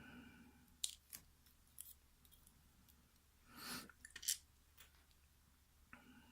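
Faint, scattered small clicks and taps of tiny metal lock parts being handled as the number 3 key pin and spring come out of a disassembled pin-tumbler cylinder, with a brief soft rustle about halfway through.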